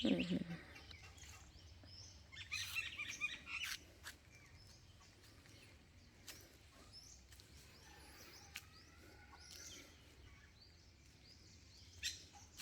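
A flock of babblers calling with harsh chattering. The loudest burst comes a couple of seconds in and a shorter one near the end, with faint scattered chirps between.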